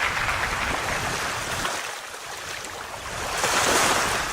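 Surf washing onto a beach, a steady rush that eases and then swells again with a louder wave near the end.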